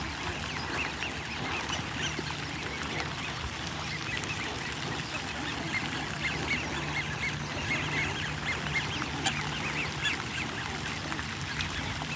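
A flock of wild birds calling, many short calls overlapping continuously, with a steady low hum underneath.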